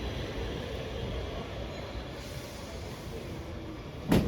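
Steady low rumble of a vehicle in motion, with one sharp knock near the end.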